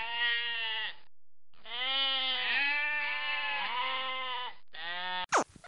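Sheep bleating: a bleat of about a second, then a long, wavering bleat lasting about three seconds, then a short one.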